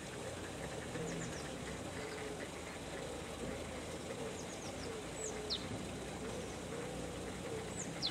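Small birds calling over steady background noise: a few short high chirps and quick descending whistles, clustered about five seconds in and again near the end.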